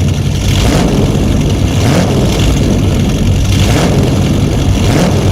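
Heavy vehicle engine running steadily with a deep rumble.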